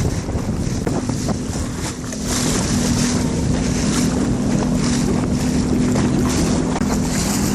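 Jet ski engine running at low speed with a steady hum, getting a little louder about two seconds in, under wind buffeting the microphone and water splashing.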